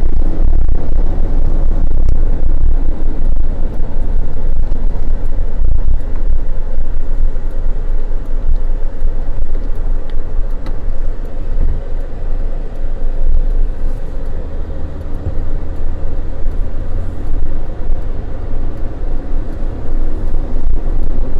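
Motor vehicle driving, a steady low engine and road rumble.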